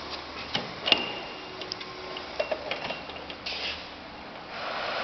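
Scattered light clicks and knocks, the sharpest about a second in with a short high ring after it; a steady rushing noise starts near the end.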